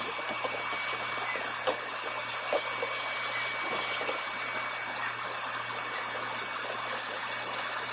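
Small electric motor running steadily, moving air with an even rushing hiss, a thin high whine and a low hum, with a few faint ticks.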